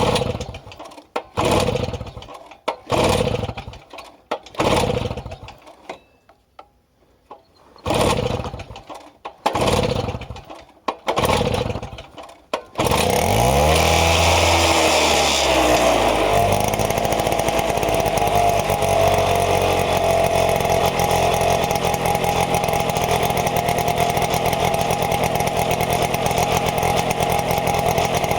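Gutbord two-stroke outboard motor being cold-started after months unused: it is cranked over in a string of short bursts, with a pause partway through, without firing, then catches about 13 seconds in. It wavers in speed for a few seconds before settling into a steady, even run.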